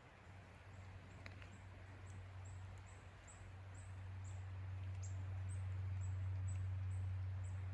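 A small bird giving a series of short, high, thin calls, about three a second, over a low steady hum that grows louder about halfway through.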